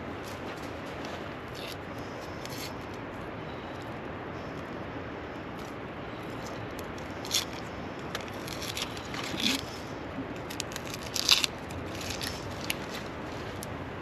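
Scattered clicks, rattles and scrapes of fishing gear being handled and packed up over a steady background rush; the loudest clatter comes about eleven seconds in.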